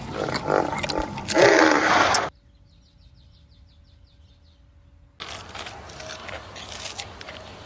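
A large wild animal calling with a loud, rough roar-like sound for about two seconds. Then comes a quiet stretch with faint rapid chirping, and a second stretch of rough animal sound starts about five seconds in.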